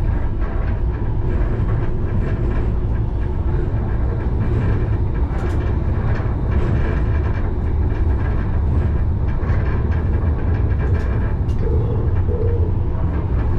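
Alstom Citadis tram running along its track, heard from the driver's cab: a steady low rumble of wheels on rail and drive, with a few sharp clicks.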